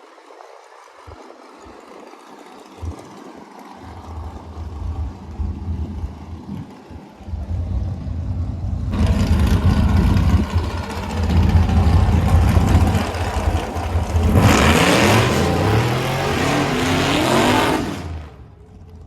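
Car engine running and accelerating. A low rumble builds and grows louder, then rises in pitch as it is loudest near the end, and cuts off suddenly.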